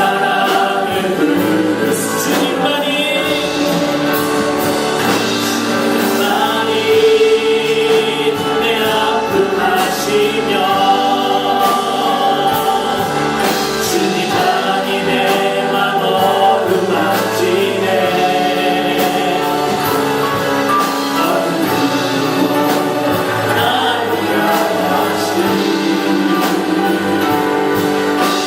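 A group singing a Christian worship song together, with instrumental accompaniment.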